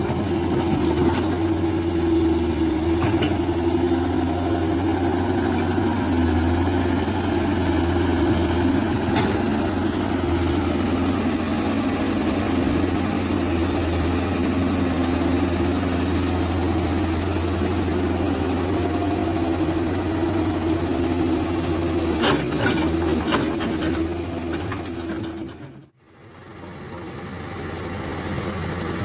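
Hino truck's diesel engine idling steadily. The sound drops out abruptly near the end, then comes back.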